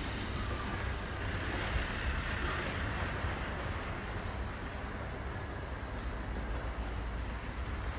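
Wind buffeting the microphone: a steady rushing noise with a heavy, fluctuating low rumble.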